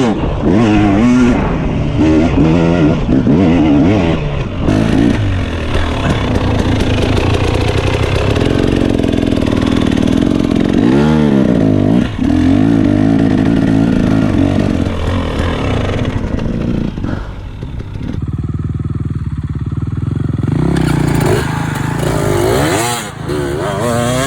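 Dirt bike engine ridden hard on a trail, revving up and down again and again through throttle changes and gear shifts. The engine eases off for a couple of seconds about eighteen seconds in, then picks up again.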